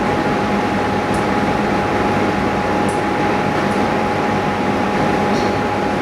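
Steady mechanical hum of running machinery, with a constant whine, a few faint light ticks over it.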